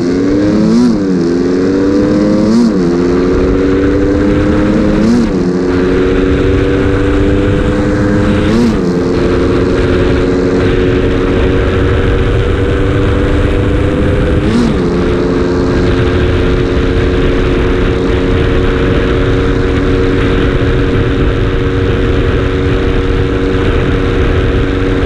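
Stock motorcycle engine accelerating hard through the gears, heard onboard. The pitch climbs in each gear and drops sharply at five upshifts, each gear held longer than the last, then holds steady at high revs from about the middle on, with wind rushing over the microphone.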